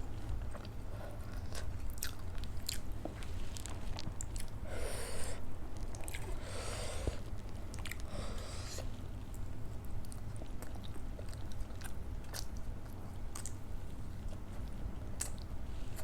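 Close-up mouth sounds of someone eating idli with sambhar and chutney: chewing, with many small sharp smacking clicks throughout and three longer noisy mouth sounds at about five, seven and eight and a half seconds in. A steady low hum runs underneath.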